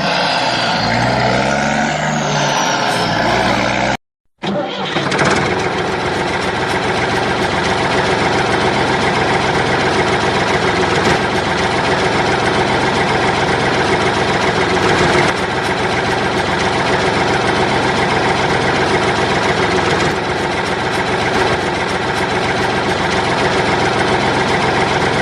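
An engine running steadily at an even speed. There is a short break in the sound about four seconds in.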